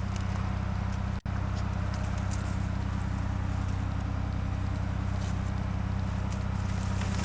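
An engine idling steadily nearby, a low even pulsing hum, with a momentary dropout in the sound about a second in.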